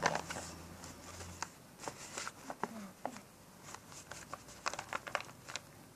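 Handmade paper squishy being squeezed and handled, its paper and tape crinkling in quick, irregular crackles.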